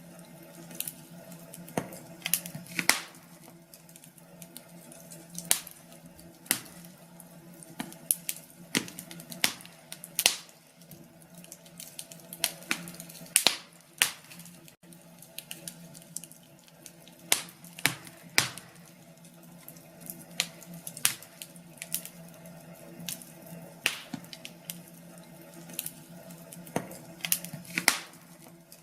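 Wood fire crackling in a fireplace: irregular sharp snaps and pops, sometimes several in quick succession, over a faint steady hum.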